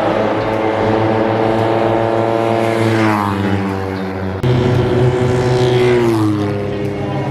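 Motorcycle engines running at speed, their pitch sliding down as machines pass, about three and six seconds in, with a sudden jump to a louder engine about four and a half seconds in.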